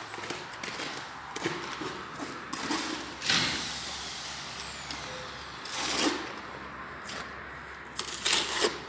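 Construction site noise: a steady background hiss of work going on, broken by brief louder bursts about three seconds in, about six seconds in, and twice near the end.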